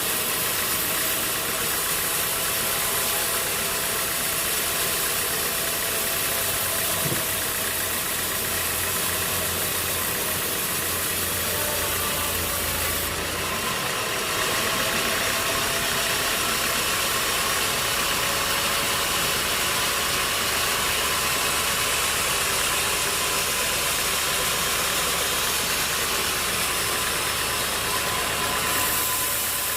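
An engine running steadily under a dense, even mechanical noise. The sound shifts abruptly about thirteen seconds in.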